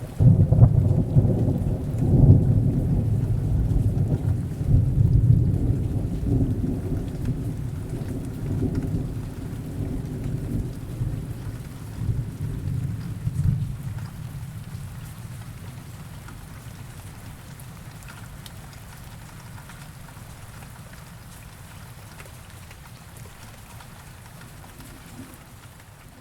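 Thunder rolling over rain: a deep rumble starts suddenly, swells several times over the first half, then slowly dies away, leaving a soft steady rain hiss.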